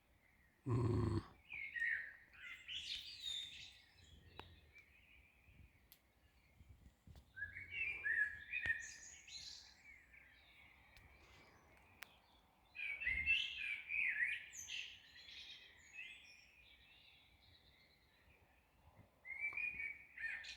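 Birds singing in bouts of quick chirping phrases, with a new burst every few seconds. About a second in there is a brief low thump or grunt, louder than the birds.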